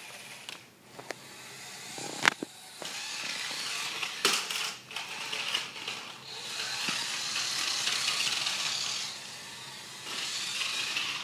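Toy remote-control car's small electric motor and gears whirring as it drives, swelling and fading as it speeds up and slows, with two sharp knocks in the first half.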